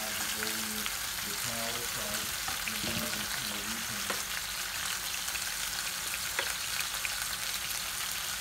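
Skin-on chicken pieces frying in an electric skillet: a steady sizzle with constant small crackles and pops, and a few knocks against the pan.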